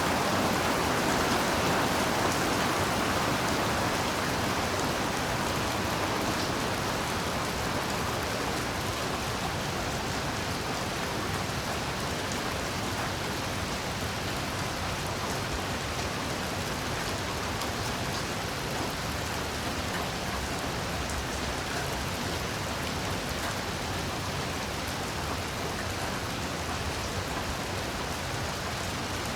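Heavy rain falling steadily: a dense hiss with the fine patter of drops hitting surfaces. It is slightly louder for the first few seconds, then settles and stays even.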